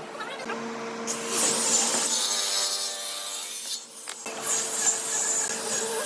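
A power tool working wood in two long passes, a short break between them, over a steady motor hum.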